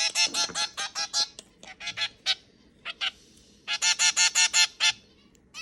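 A bird calling in quick runs of short, same-pitched calls, several a second, in bursts separated by short pauses; the longest and loudest run comes near the end.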